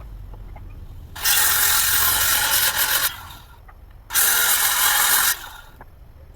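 A power tool runs in two loud bursts, the first about two seconds long, the second just over a second, each starting and stopping abruptly.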